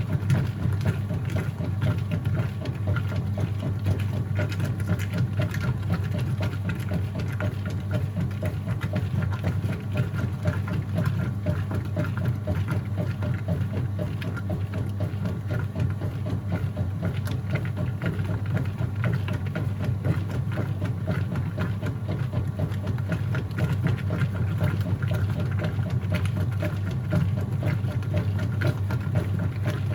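Whirlpool top-load washing machine running mid-cycle: a steady motor hum with a fast, even rattle over it.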